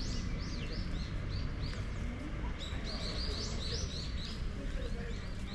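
A small bird calling in quick runs of short, high chirps, two runs, the second starting about two and a half seconds in, over a low steady background hum.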